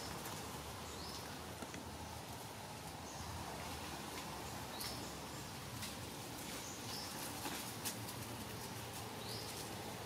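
Steady forest ambience hiss, with a bird giving several short rising chirps a couple of seconds apart and a few faint clicks.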